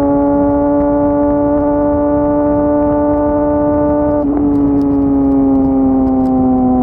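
Yamaha R6's inline-four engine running steadily at high revs, its pitch easing slowly lower, with a brief break in the note about four seconds in.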